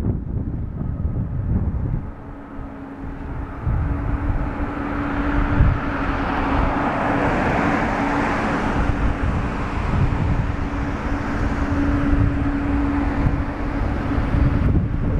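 Jet engines of a Boeing 777-200 running at low power during pushback: a steady whine with a rushing hiss that swells a few seconds in. Strong wind buffets the microphone with a heavy rumble.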